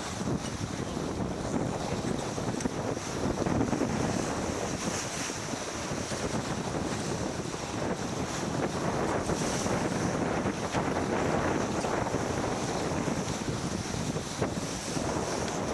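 Wind buffeting the microphone over the steady rush of water along a racing sailboat's hull.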